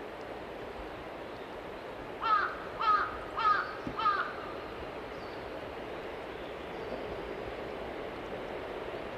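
A bird gives four short harsh calls in quick succession about two seconds in, over the steady running noise of the train.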